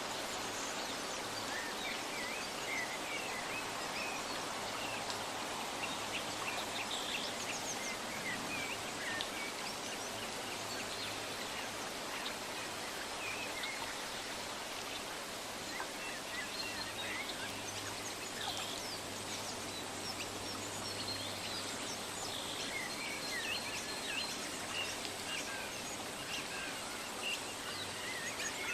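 Nature ambience for relaxation: a steady, even hiss of outdoor noise with small birds chirping in short, scattered calls throughout.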